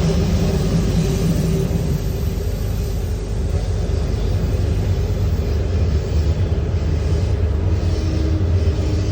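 Loud, steady low rumble of a moving train, with a couple of steady hum tones over the noise, cutting in suddenly.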